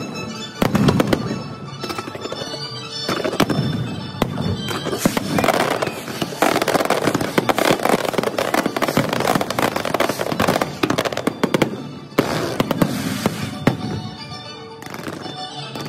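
Fireworks shells bursting in rapid, overlapping bangs, thickest in the middle, with music playing underneath.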